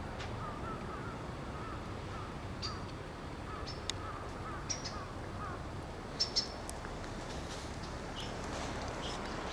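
Birds calling: a run of short, wavering mid-pitched notes over the first five seconds or so, with a few sharp high chirps scattered through, over a steady low background rumble.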